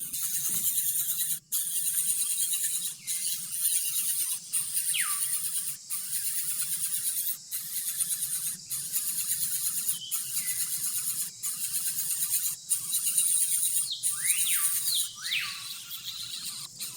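Birds giving several short whistled calls that fall steeply in pitch, most of them close together near the end, over a steady high-pitched hiss that breaks off briefly about once a second.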